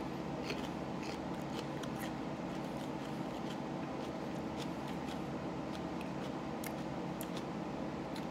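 Raw jalapeño pepper being bitten and chewed close to the microphone: scattered faint crisp crunches and mouth clicks over a steady background hum.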